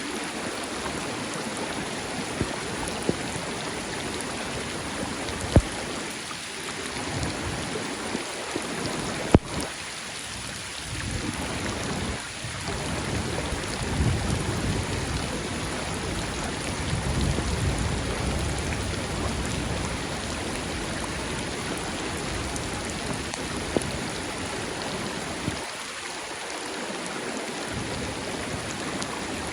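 Steady rain falling during a thunderstorm over a rushing river, with a low rumble of thunder swelling through the middle and a few sharp single drop taps.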